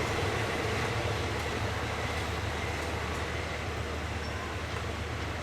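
Passenger train running: a steady rumble and low hum of wheels on rail that slowly fades.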